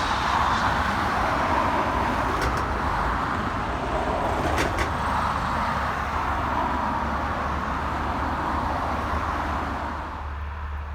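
Jet airliner engine noise: a steady rushing roar that fades away about ten seconds in, with two faint clicks along the way.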